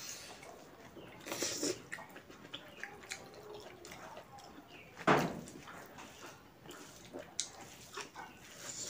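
Close-miked eating sounds: a person chewing and smacking on smoked pork intestine and millet rice, with wet clicks and mouth noises. One louder, brief mouth noise about five seconds in.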